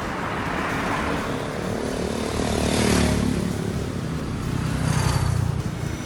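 Motor vehicle sound: a steady engine rumble with noise over it, growing louder about halfway through and again near the end.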